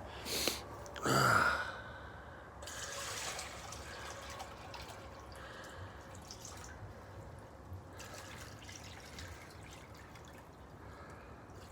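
Water trickling and dripping, with a short, louder breath-like sound about a second in.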